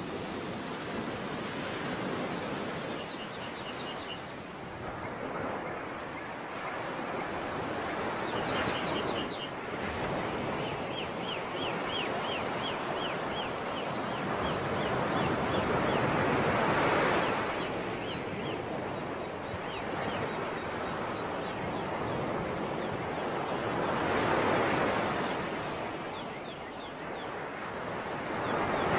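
Sea waves washing in and drawing back, swelling twice, once past the middle and again near the end. Over the surf a small bird chirps in quick runs of short high notes.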